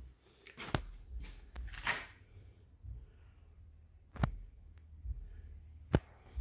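Three sharp knocks or clicks, about a second in, just past four seconds and near the end, over faint rustling and handling noise.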